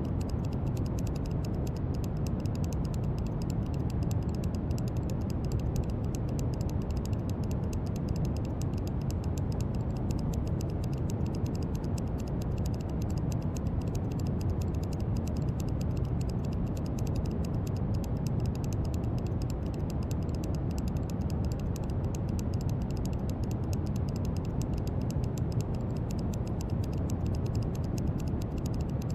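Brown noise: a steady, deep rushing hiss, strongest in the low end, with no change or breaks.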